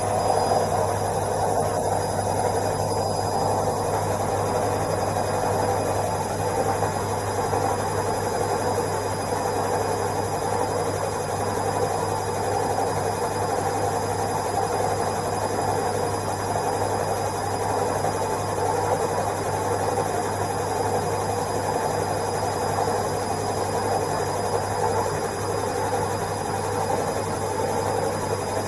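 Washing machine on its spin cycle: a steady mechanical whir over a low hum, even and unchanging throughout.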